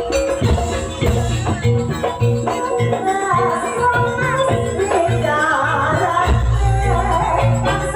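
Live Javanese jaranan music from Banyuwangi: percussion ensemble playing a steady, pulsing rhythm, with a wavering melody line coming in about three seconds in and a deep low tone entering near the end.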